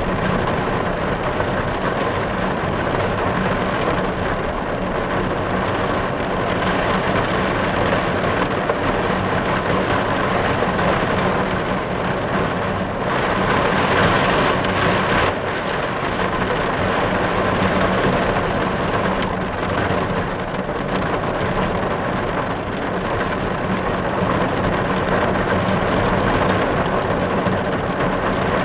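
Steady, heavy rain falling on a car's roof and windows, heard from inside the car.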